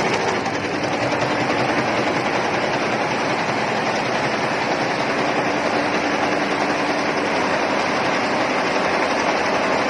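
Computerized embroidery machine stitching, its needles running in a steady, rapid clatter.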